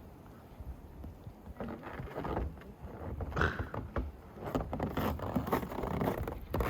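Footsteps of someone walking on a forest trail, irregular crunching steps with a low rumble underneath.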